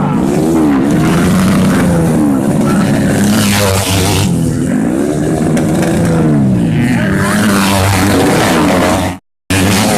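Racing motorcycle engines revving up and falling back again and again over a steady low drone. The sound cuts out briefly near the end.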